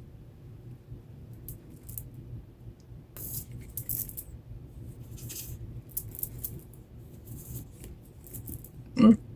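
Light clicks and rustles of small pieces being handled by hand, coming in short scattered bursts over a low steady hum. A brief pitched sound a little after nine seconds is the loudest moment.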